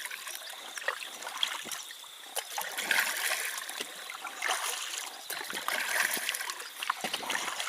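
Small splashes and water trickling around a canoe as it is paddled, with swells about every second and a half.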